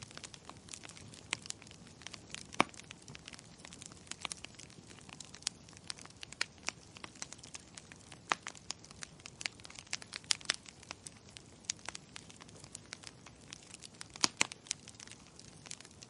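Fire in a fireplace crackling, with irregular sharp pops and snaps over a soft hiss; the loudest pop comes about two and a half seconds in, with another cluster of strong pops near the end.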